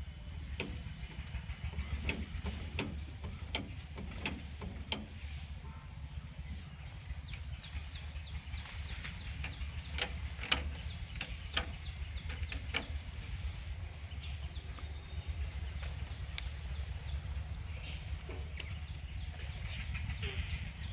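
Tractor engine running with a steady low rumble. Scattered sharp knocks and clicks sound over it, the loudest about ten and a half seconds in, and a steady high-pitched tone runs above it.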